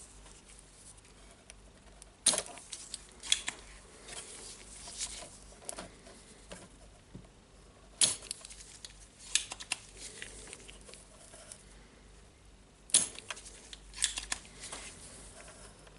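Small hand tools clicking, tapping and scraping on a circuit board while a potentiometer is desoldered. There are a handful of sharp clicks a few seconds apart, with softer rustling and scraping between them.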